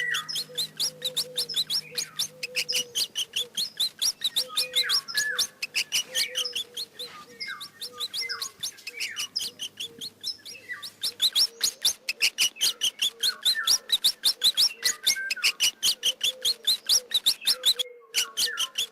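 Mice squeaking: a fast run of short, high chirping squeaks, several a second, with a brief break near the end.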